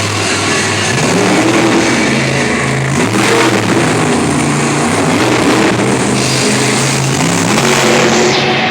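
Monster truck engine revving up and down again and again, with music playing behind it.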